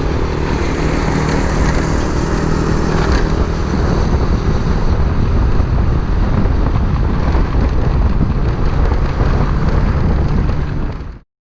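Wind buffeting the microphone over the steady running of a motorcycle and its road noise while riding. The sound cuts off suddenly near the end.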